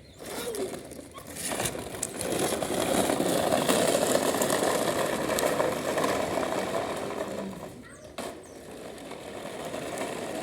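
A small motor or engine running with a rapid, rattly buzz. It cuts out briefly about eight seconds in, then comes back and builds up again.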